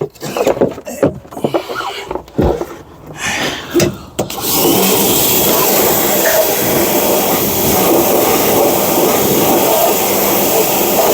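Irregular clunks and knocks of handling, then a pressure washer comes on suddenly about four seconds in and runs steadily, its motor humming under the hiss of the spray.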